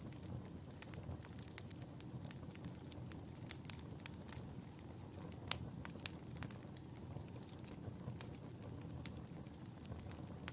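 Wood fire burning in a fireplace: a steady low rumble with irregular sharp crackles and pops, one louder pop about halfway through.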